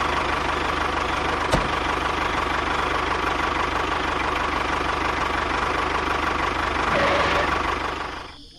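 A small electric motor running steadily with a fast, even buzz and a steady whine, with a single click about a second and a half in; it fades out near the end.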